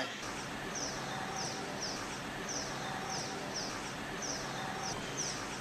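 A small bird calling over and over in rural outdoor ambience: short high chirps, each falling in pitch, a little more than one a second.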